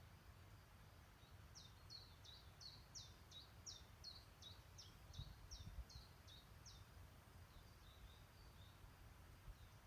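A small songbird singing a fast series of short, high, downward-slurred notes, about three a second for some five seconds, trailing off into a few softer notes. A faint low rumble lies underneath.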